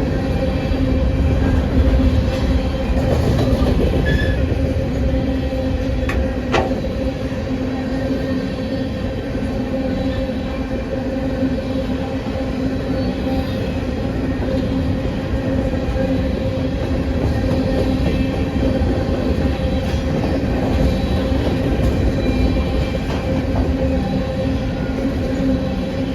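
Train running, a loud steady drone with two constant low hums under a noisy rumble, and one short sharp click about six and a half seconds in.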